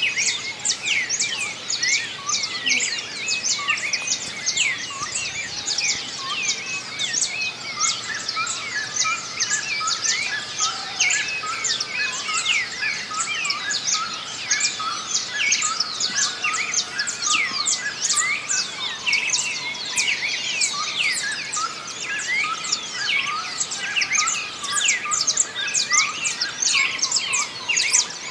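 A dawn chorus of many songbirds singing and chirping at once, a dense, overlapping mix of quick downward-sweeping notes and short chirps that goes on without a break.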